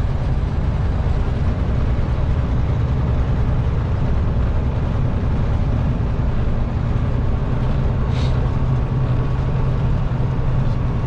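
Kenworth T660 semi truck's diesel engine running steadily under way, with road noise. A brief click about 8 seconds in.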